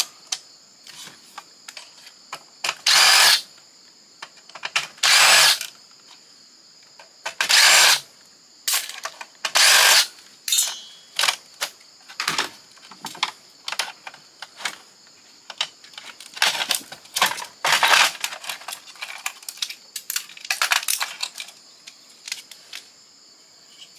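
Cordless power drill/driver running in several short bursts, each about half a second, as screws are backed out of a fax machine's chassis, with clicks and rattles of metal parts being handled between the bursts.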